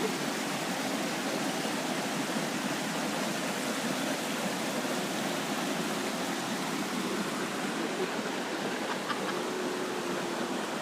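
Steady rushing of a large waterfall and the stream below it.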